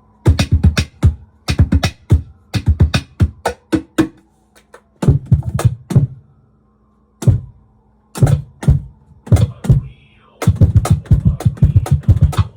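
Laptop cajon struck in quick flurries of hand hits, played through a Digitech BP355 multi-effects pedal on an oddly processed preset, the hits heavy in the low end. A faint steady hum sits underneath.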